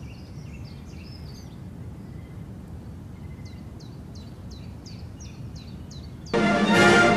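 Small birds chirping in short, high, downward-hooked notes, several in quick series, over a low steady rumble. A brass band starts playing near the end.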